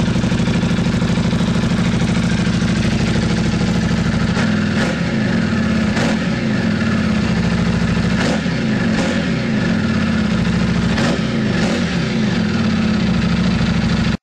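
Buell 1125CR V-twin running through a Free Spirits dual exhaust: idling steadily, then blipped with a series of quick throttle revs starting about four seconds in.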